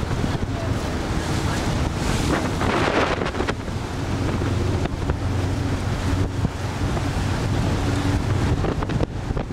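Wind buffeting the microphone over water rushing against a sailboat's hull, with a louder rush about two seconds in.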